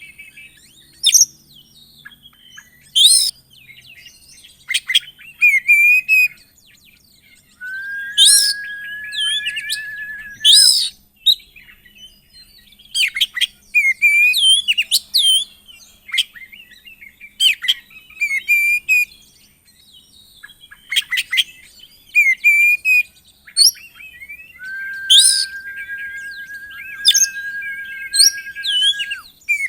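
Oriental magpie-robin (kacer) singing: a varied run of loud, sharp whistled calls and short chirps, twice broken by a long buzzing trill held at one steady pitch for a few seconds.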